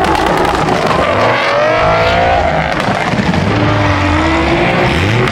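Loud car engines running at a car meet, revving with their pitch slowly rising and falling over a steady low rumble.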